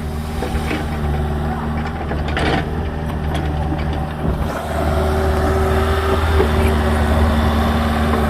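Diesel engine of a small agricultural excavator running steadily, growing louder about five seconds in as the machine is worked.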